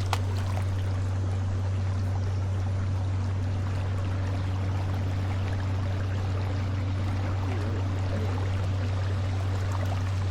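Water trickling and splashing around an inflatable kayak as it is paddled, over a steady low hum. A single sharp knock comes right at the start.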